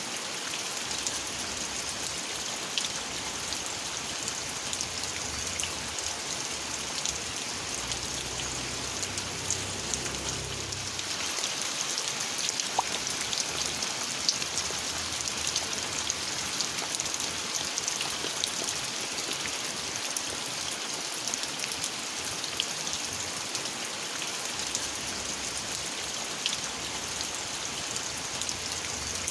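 Steady rain falling, with many individual drops tapping on surfaces.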